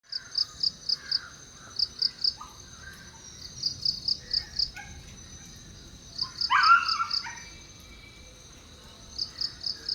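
Crickets chirping in short trains of four or five high pulses, repeating every second or two. About six seconds in, a single loud, harsh call of about a second cuts across them, with faint bird calls behind.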